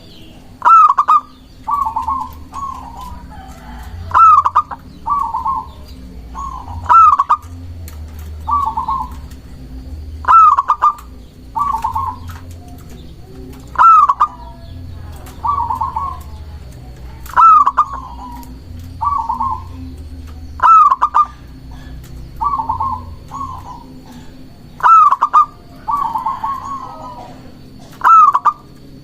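Zebra dove (perkutut) singing its cooing song over and over. Each phrase is a sharp, loud first note followed by a few softer rolling coos, repeating about every three to four seconds.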